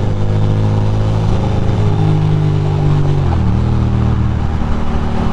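Ducati Monster 821's L-twin engine running under way, its note holding steady and then dropping about three seconds in.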